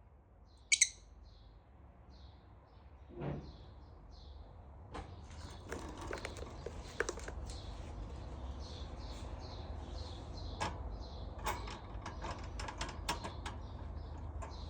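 Pet lovebirds chirping softly and steadily, with one sharp loud call about a second in. From about five seconds on, rustling with a string of sharp clicks and taps joins the chirps.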